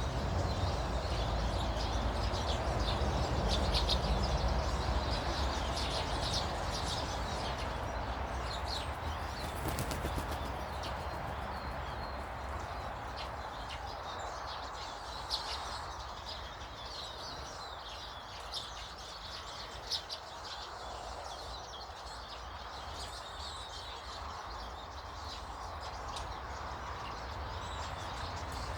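Small garden birds chirping and twittering over a steady low rumble, with a few sharp taps about halfway through.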